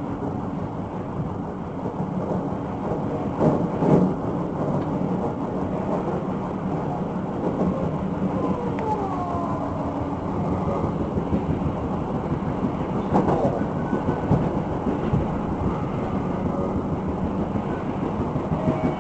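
Hankyu electric commuter train running along the track, heard inside the front car: a steady rumble of wheels on rail, with louder clatters about three and a half seconds in and again around thirteen seconds, and a brief falling whine near nine seconds.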